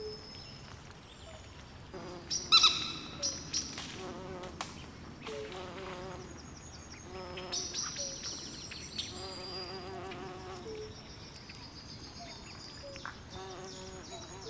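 Swamp night chorus of frogs and insects calling over one another: low, wavering trills and short croaks repeat throughout, under high-pitched chirping. A few louder calls stand out about two to four seconds in.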